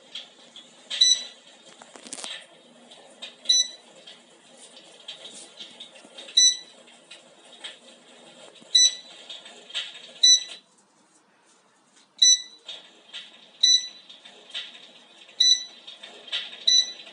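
Electric fireplace's control unit beeping nine times, a short high beep every one to three seconds as its settings are stepped through, over the unit's faint crackling-fire sound effect, which cuts out for a second or two about ten seconds in and then comes back.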